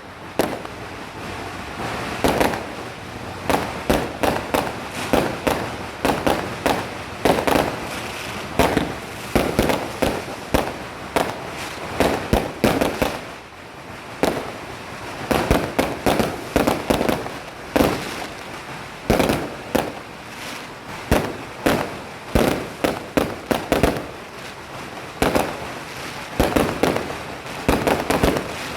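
Fireworks going off: many sharp bangs in rapid, irregular clusters, one after another throughout.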